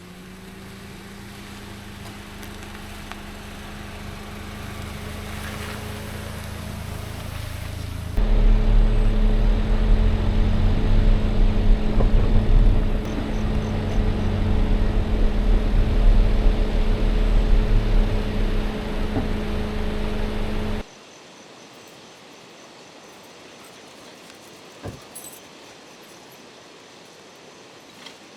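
Motor vehicle engine running at a steady speed, its hum slowly growing louder, then much louder and rumbling about eight seconds in, before cutting off abruptly two-thirds of the way through. A quiet background with a couple of faint clicks remains.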